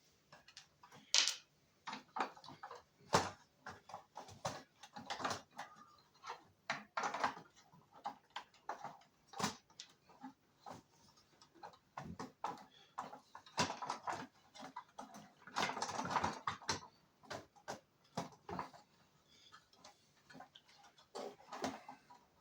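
Irregular clicks, taps and short scrapes of small parts being handled and fitted by hand while an instrument cluster is being reassembled, with a longer stretch of rustling and scraping about two-thirds of the way through.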